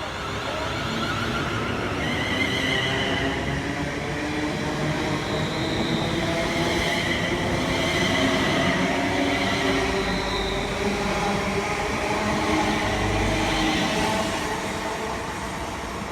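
A train passing through the station, getting louder to a peak about halfway and then easing off, with a drone of several steady pitched tones over the running noise.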